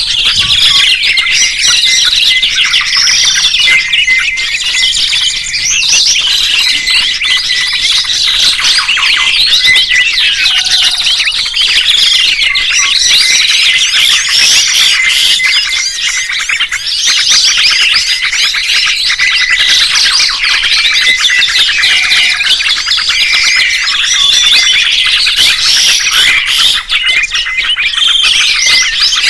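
Songbirds chirping and trilling without pause: a dense, unbroken stream of quick, high calls.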